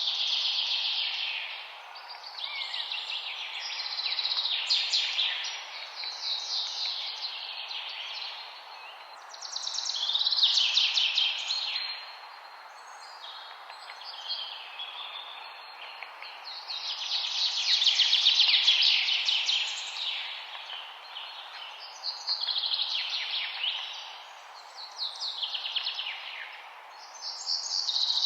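Songbirds singing: phrases of rapid, high, trilling notes, each a second or two long, come every few seconds over a steady background hiss.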